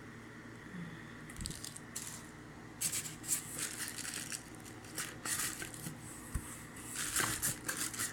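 Plastic packaging rustling and crinkling in irregular bursts as a multicooker's accessories are unwrapped and handled, with a few light knocks.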